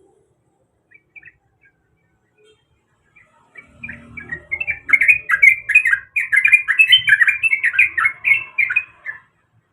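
Yellow-vented bulbul (trucuk) singing: a few faint notes, then, from about three and a half seconds in, a fast run of loud bubbly notes lasting some five seconds before it stops.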